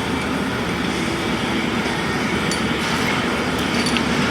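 Self-shielded flux-cored arc welding with Lincoln Innershield NR-305 5/64-inch wire: the arc crackles steadily, with a few faint sharp pops.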